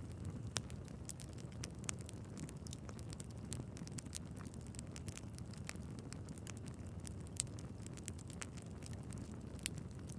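Wood fire burning in a fireplace: a steady low rumble and hiss of flames with irregular crackles and pops from the logs, one sharper pop about seven seconds in.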